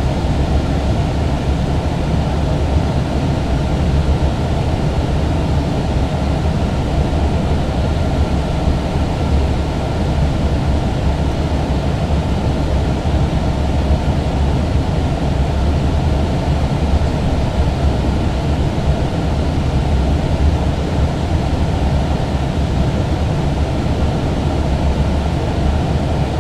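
Steady cabin noise on an Airbus A321 flight deck during the approach: a constant rush of airflow and engine noise, deepest and loudest in the low rumble, unchanging throughout.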